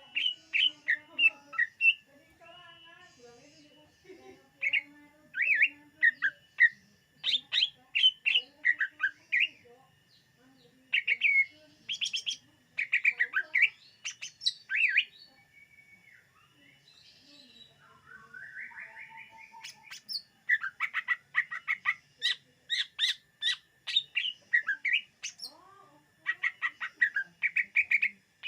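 Cucak ijo (greater green leafbird) singing: rapid runs of sharp chirps and whistled notes in bursts, with a quieter pause past the middle and a rising whistle before the song picks up again.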